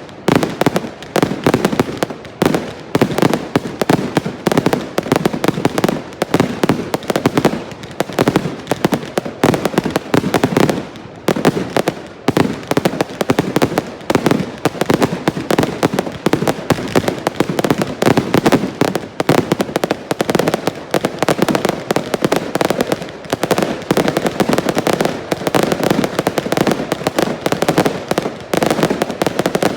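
Fireworks display going off in a dense, continuous barrage of bangs, many reports a second with hardly a gap.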